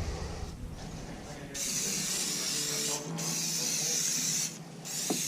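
Two steady hisses of spray, each about a second and a half long with a short break between, then a brief third one near the end.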